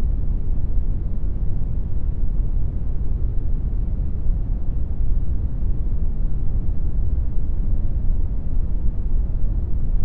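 Steady computer-generated brown noise: an even, deep rushing hiss, strongest in the low bass and fading off toward the treble, with no changes.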